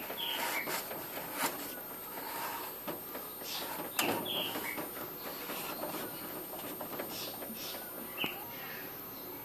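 A few short bird chirps over scattered light clicks and rustles, the sharpest click about four seconds in.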